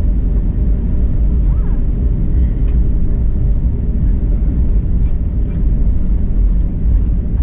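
Steady, loud low rumble of an Airbus A321neo's cabin as the airliner taxis after landing, engine and airframe noise heard from inside the passenger cabin.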